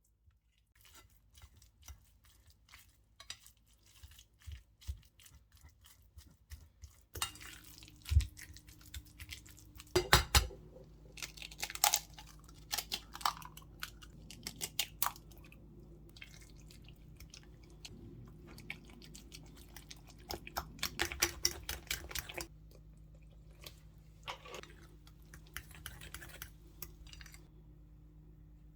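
Food-preparation handling in a kitchen: irregular small clicks and clinks of utensils and dishes, some louder clusters among them. A steady low hum starts about seven seconds in.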